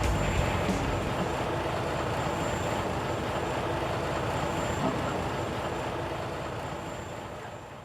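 Truck engine and road noise running steadily, then fading out near the end.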